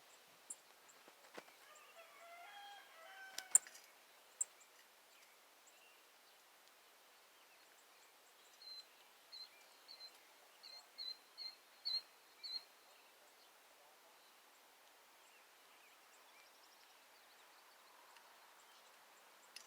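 Birds calling, faint: a short pitched call about two to three seconds in with a sharp click at its end, then a run of about eight quick high chirps that grow louder, from about nine to twelve and a half seconds in.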